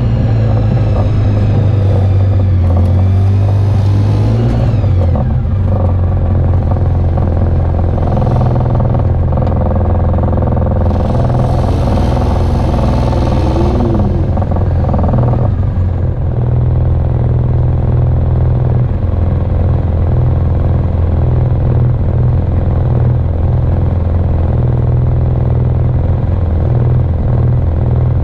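Off-road side-by-side or ATV engine running steadily under load while trail riding, with the rattle of the machine over rough ground. A whine drops away about four to five seconds in, and a burst of hiss comes around the middle.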